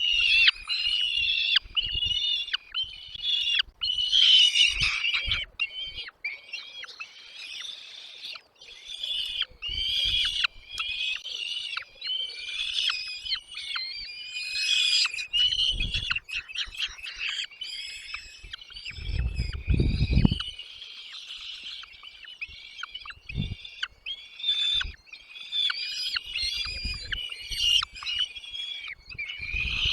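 Baby birds in a nest chirping rapidly and almost without pause, many high calls overlapping. About two-thirds of the way through there is a low rumble lasting about a second, with a few shorter low thumps elsewhere.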